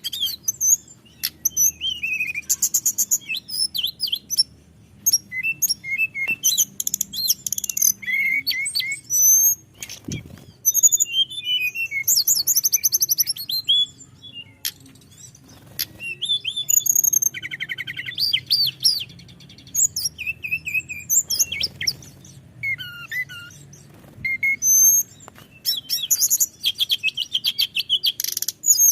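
Tledekan gunung (snowy-browed flycatcher) singing on and on in a long run of high, thin whistled phrases: quick sweeping notes and fast trills repeated with short pauses between them.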